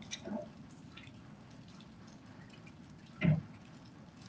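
Rain dripping and pattering steadily on wet pavement, with a brief louder low sound about three seconds in.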